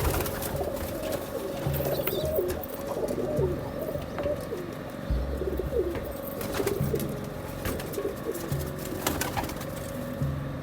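Domestic pigeons cooing in a loft, several birds overlapping, with low coos repeating every second or two and scattered sharp clicks.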